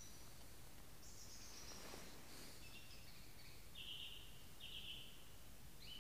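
A songbird singing a phrase of short notes that step down in pitch, each lower than the last, with a new phrase starting near the end, over a faint steady hiss.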